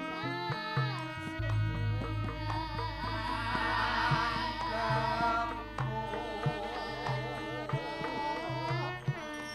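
Javanese gamelan music with kendang drum strokes under a sinden singing a long, wavering, ornamented vocal line.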